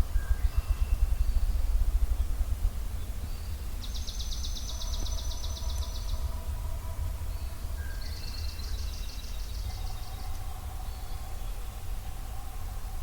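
Ruffed grouse drumming: a run of rapid, deep thumps that stops under three seconds in. Songbirds sing over a low rumble, including two fast, high trills.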